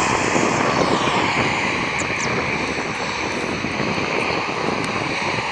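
Airplane engines running steadily, a loud rushing noise with a high whine that glides down in pitch about a second in.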